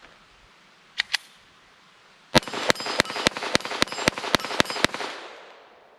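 Taurus TX22 .22 LR pistol firing a rapid string of ten shots, about four a second, starting a little over two seconds in, with an echo that fades after the last shot. Two light clicks come about a second in, before the first shot.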